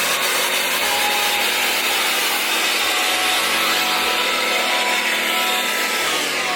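A loud, steady rushing noise with a faint hum underneath, fading away at the end.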